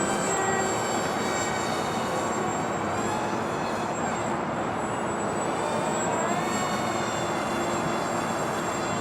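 Twin Emax 1106 8000kv brushless motors with 3-inch props on a small RC flying wing whining in flight, several high tones shifting in pitch with throttle and rising about six seconds in, over a steady background rush.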